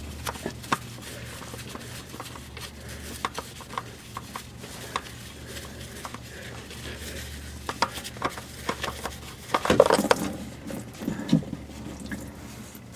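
Scattered metal clinks and knocks of tools and parts being handled during an oil change, with a louder jumble of clanks about ten seconds in.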